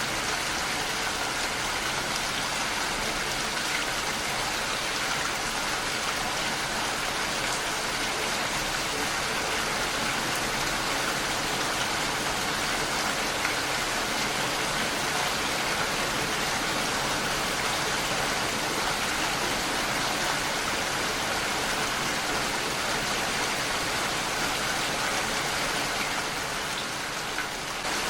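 Heavy rain falling steadily on a window, an even hiss of drops that holds at one level throughout.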